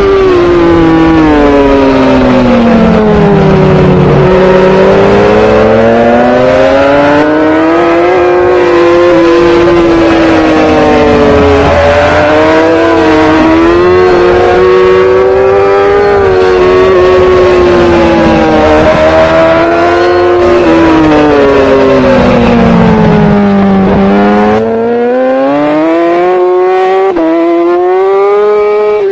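Superbike engine at racing speed. The revs fall twice as the bike slows, at about four seconds and again just before the end, and climb back up through the gears in between, over a constant rush of noise.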